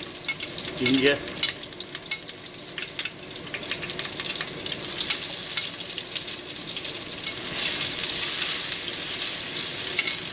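Chopped onion, garlic, ginger, chilies and tomato sizzling in hot oil in a frying pan as they are spooned in, with many short clicks and scrapes of a metal spoon on the plate and pan. The sizzle grows louder about three-quarters of the way through.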